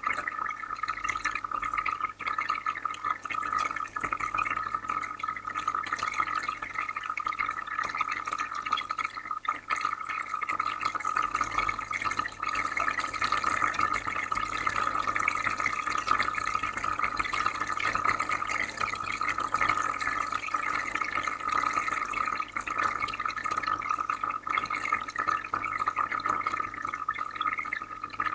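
Aquarium water bubbling and trickling continuously as a dense patter of small splashes, over a low steady hum from the filter.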